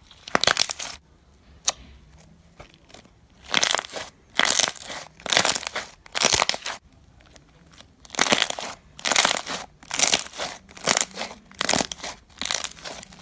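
Crunchy slime being squeezed and pressed by hand, giving a run of crackling crunches about one a second, with a short pause about seven seconds in.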